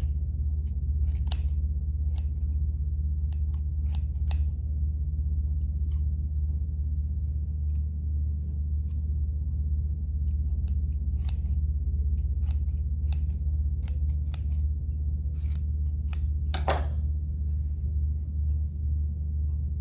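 Scissors snipping through yarn again and again at an irregular pace as a bird's yarn tail is trimmed, over a steady low hum.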